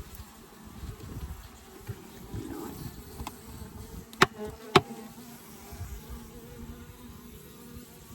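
Honeybees buzzing around an open hive, with two sharp knocks a little past halfway.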